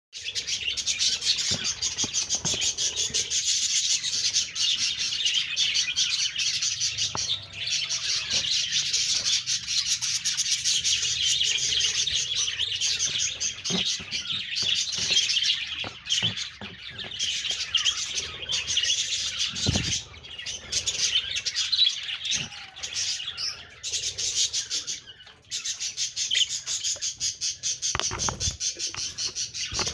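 Budgerigars chattering and warbling in fast, continuous chirps, with a few short lulls. A couple of dull low knocks are mixed in.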